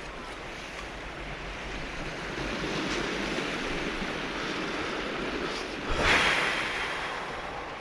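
Sea waves breaking on a cobble beach, a steady surf wash with one bigger wave crashing about six seconds in and then fading.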